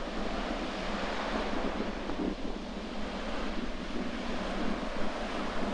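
Sea surf washing against the shore, with wind gusting across the microphone.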